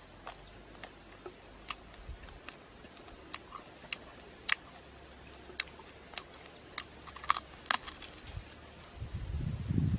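Irregular crisp clicks and crunches of a person chewing grilled snake, about one or two a second, with a louder low muffled rumble near the end.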